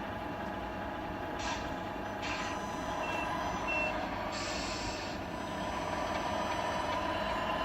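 Sound unit of a Tamiya radio-controlled truck playing a diesel engine running steadily, with short air-brake hisses, a longer hiss about four and a half seconds in, and two reversing beeps about three seconds in.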